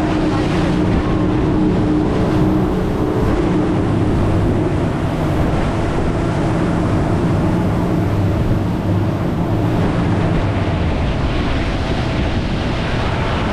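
Speedboat engine running at a steady pitch under a constant rush of wind and water.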